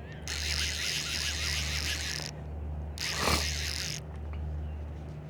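Nautilus CCF-X2 fly reel spinning with a fast clicking rasp, in two spells: about two seconds, then a shorter one about a second later.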